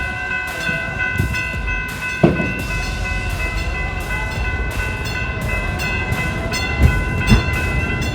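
CapMetro Rail commuter train running: a steady low rumble under a constant high whine, with light rhythmic clatter and a few sharp clunks, one about two seconds in and two near the end.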